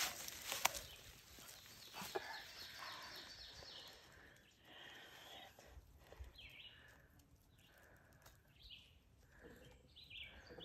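Faint outdoor sound: a few sharp clicks in the first two seconds, then a bird calling over and over with short notes in the background.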